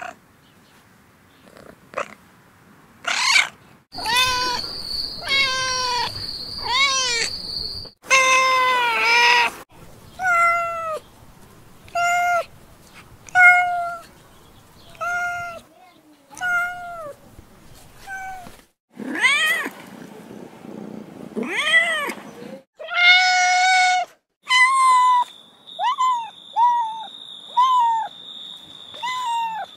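Kittens meowing over and over: short, high, arching calls, roughly one a second.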